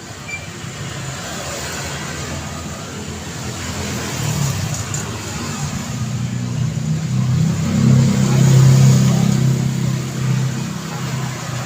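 Street traffic: a motor vehicle's engine hum grows louder over a steady wash of road noise, is loudest about eight seconds in, then eases off.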